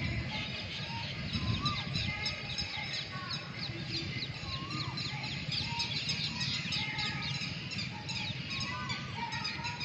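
Birds chirping: a dense, rapid stream of short high chirps, with a few lower whistled notes every second or two.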